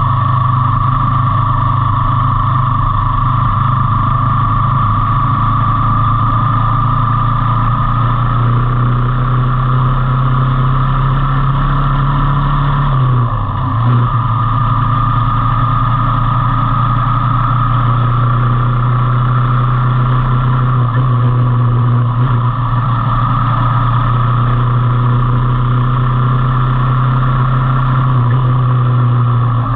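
Motorcycle engine running at a steady speed, with its pitch dipping briefly about 13 seconds in before it picks up again.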